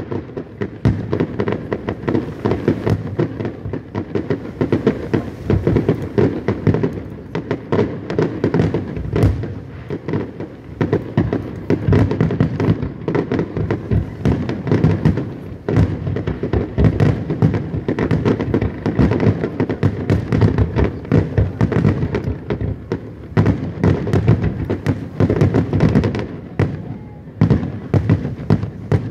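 Fireworks display: a dense, continuous barrage of shell bursts and crackle, many bangs a second.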